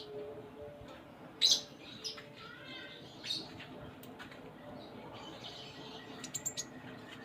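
Konin (kolibri ninja, a small sunbird) singing: scattered sharp high chirps and short trilled phrases, with a quick run of high ticks near the end.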